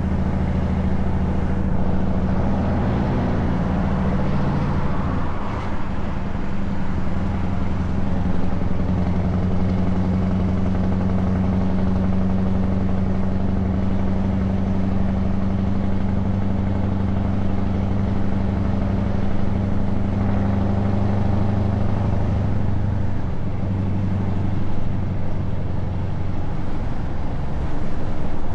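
Scania S truck's diesel engine on open exhaust pipes, running steadily under way with a deep, loud drone. The engine note changes briefly about four to five seconds in and again past twenty seconds, then settles.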